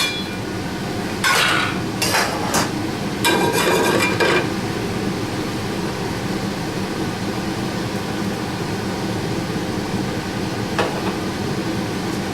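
Metal pan clattering and scraping on the stovetop as it is set up, several clanks in the first four seconds and one faint click near the end, over a steady hum.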